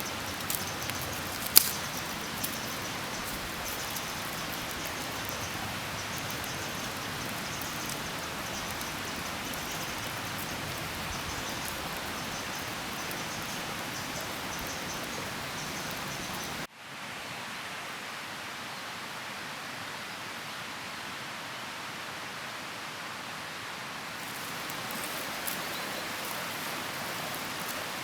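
Steady rain falling, an even patter with a few sharper drop hits. About two-thirds of the way through, the sound cuts suddenly to a softer, duller rain, and the crisper patter comes back near the end.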